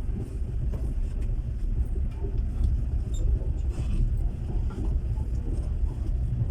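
Inside a moving passenger railway carriage: the steady low rumble of the wheels and running gear on the track, with faint scattered clicks and rattles.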